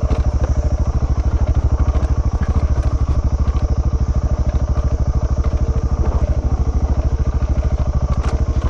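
KTM 690 Enduro's single-cylinder engine running at low, steady revs while riding along a trail, with an even, rapid pulsing beat.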